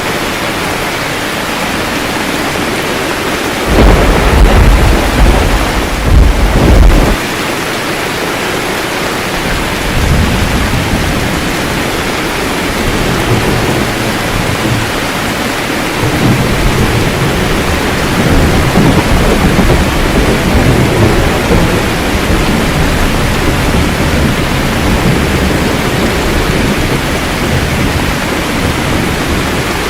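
Steady rain with thunder: a loud thunderclap about four seconds in that lasts about three seconds, then low thunder rumbling on and off through the rest.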